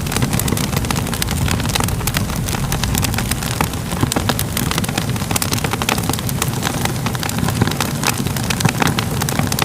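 Crackling fire: a steady low rumble of flames with frequent small, irregular crackles and pops.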